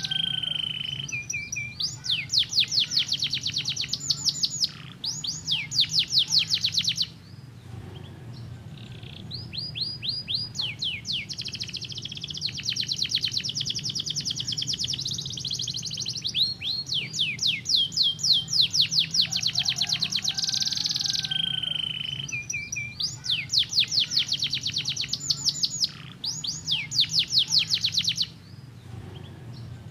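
Domestic canary singing a long song of fast trills, each a run of quick, repeated downward-sweeping notes, with short breaks about seven seconds in and near the end. A low steady hum runs underneath.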